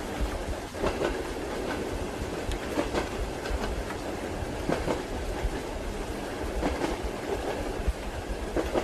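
Railway carriage wheels clacking over rail joints with a steady low rumble of a train running along the track, under an even hiss of rain.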